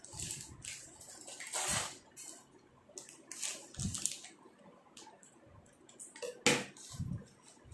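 Scattered rustling and light clicks of hands handling cake decorations and packaging, with a sharper click about six and a half seconds in.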